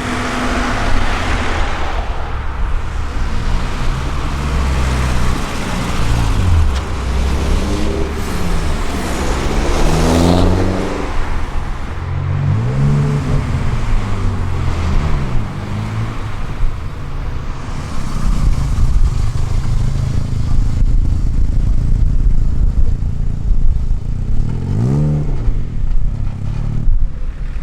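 Car engines revving hard several times, the exhaust note rising and falling in pitch over a constant loud rumble of engine and traffic noise.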